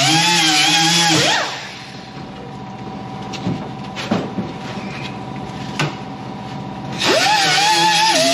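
A power tool spinning a roll-lock sanding disc against rusty sheet metal, its pitch sagging and recovering as it is pressed in. It runs for about the first second, then stops, leaving a steady whine and a few knocks, and starts again about seven seconds in.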